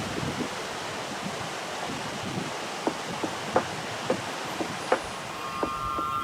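Steady rushing of a mountain river, with a few light clicks or taps in the second half.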